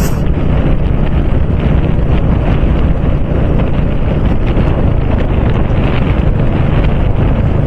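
Wind rushing over the microphone of a motorcycle on the move, a steady loud buffeting with the bike's engine running underneath.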